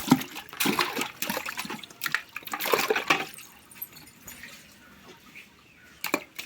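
Water splashing and sloshing as cassava (tapioca) tubers are dropped into water and washed by hand, busiest in the first three seconds, then quieter, with one more splash near the end.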